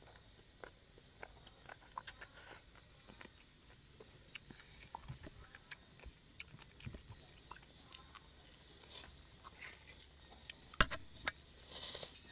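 Close-up mouth sounds of chewing a mouthful of rice noodles and spicy papaya salad: soft, wet, irregular clicks and smacks. Near the end there is a single sharp click, the loudest sound.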